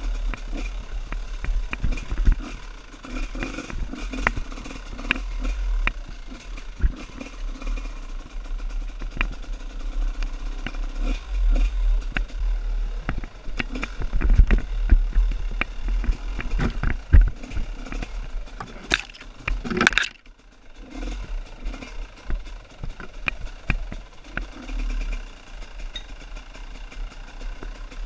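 Off-road trail motorcycle engine running, with frequent knocks and clatter over a heavy low rumble. The sound drops off briefly about twenty seconds in.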